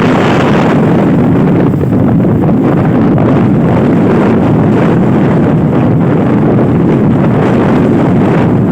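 Strong wind buffeting the microphone, a loud, steady rumbling roar.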